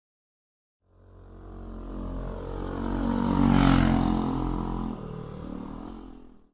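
V-twin motorcycle running past: the exhaust note grows louder, peaks about three and a half seconds in, then fades and cuts off suddenly.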